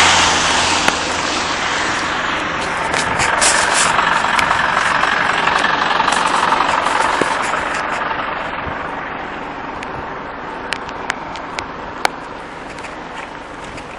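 Steady motor-vehicle noise that slowly fades away in the second half, with a few light clicks near the end.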